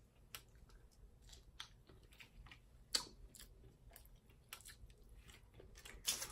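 Close-miked eating sounds: chewing with wet mouth smacks and clicks. A sharper smack comes about three seconds in and another near the end.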